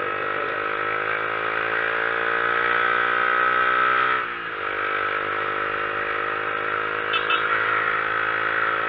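Motorcycle engine pulling under throttle, its note rising steadily. About four seconds in it drops sharply and briefly, as at a gear change, then carries on steadily. A constant rush of wind noise runs underneath.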